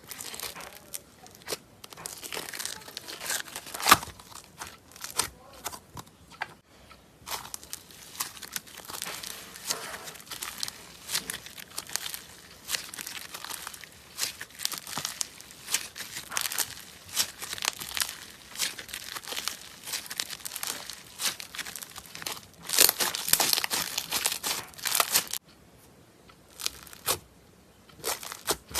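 Slime being worked by hand, giving dense crackling and crinkling in clusters with short pauses. There is a sharp snap about four seconds in, and a quieter lull near the end.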